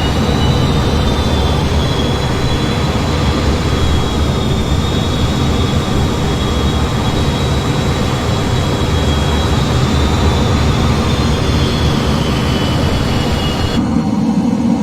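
F-15 jet engines running steadily: a loud, constant rumble with a thin high whine that wavers slightly in pitch.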